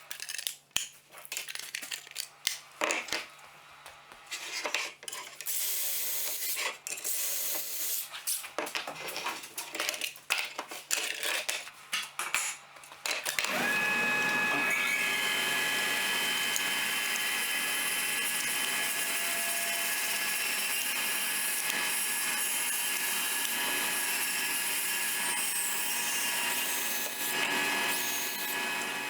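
Irregular knocks and clatter of wood and tools being handled, then an electric power tool's motor spins up and runs steadily at speed with a high whine, winding down near the end.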